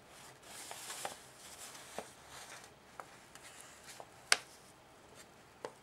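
A sheet of paper being folded by hand: soft rustling, with a handful of sharp crisp ticks as it is handled and creased, the loudest about four seconds in.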